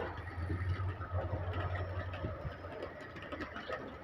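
Indian Railways goods train running past: a low rumble, strongest for the first two seconds and then easing, with a rapid clatter of wheels on the rails.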